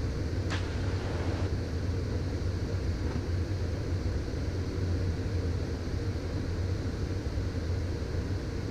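Steady cockpit noise of a Beechcraft Premier I jet in the climb: an even low drone of its turbofan engines and airflow, with a brief faint click about half a second in.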